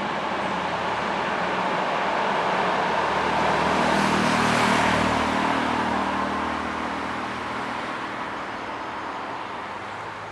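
A Thello EuroCity passenger train passing by: a steady rumble with a low hum that builds to its loudest about four to five seconds in, then fades away.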